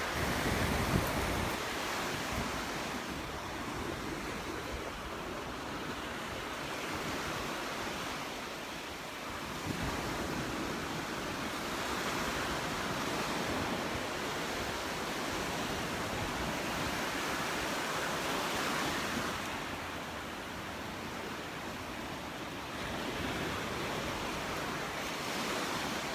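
Gentle surf breaking and washing up on a sandy beach, swelling and easing every few seconds, with some wind rumble on the microphone.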